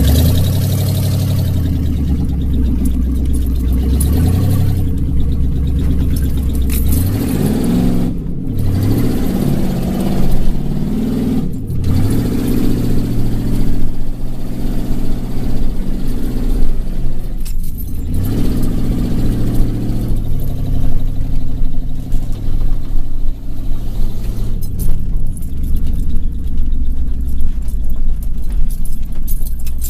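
Chevrolet K5 Blazer engine running and being revved. Its pitch rises and falls several times, in a cluster about a third of the way in and again past the middle, and it turns rougher and choppier toward the end.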